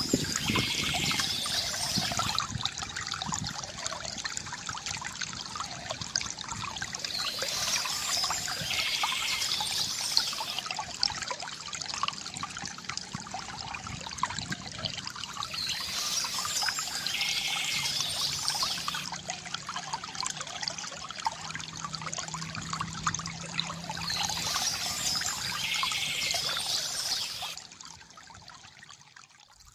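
Water trickling and pouring from a bamboo fountain, a steady gurgling flow that drops away shortly before the end.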